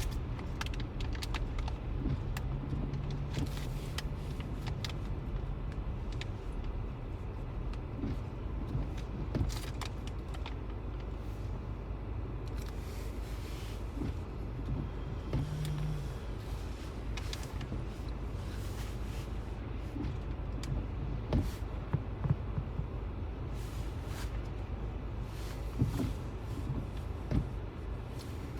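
Road noise inside a moving car's cabin: a steady low rumble, with scattered light clicks and knocks and a brief low hum twice.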